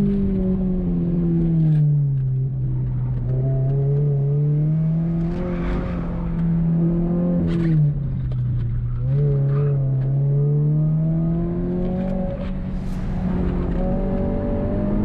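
Subaru BRZ's flat-four engine, fitted with an aftermarket axle-back exhaust, pulled hard through an autocross course: its pitch falls about two seconds in, climbs slowly and holds, drops again about eight seconds in, then climbs and holds once more.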